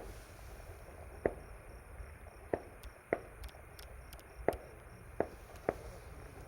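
Scattered distant firework bangs, about six single sharp pops at uneven intervals.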